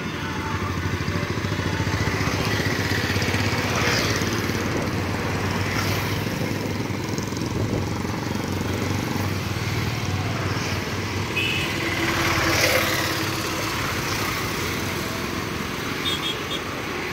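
Steady rumble of a long passenger train's coaches rolling along an elevated viaduct, mixed with the engines of two-wheelers on the road below.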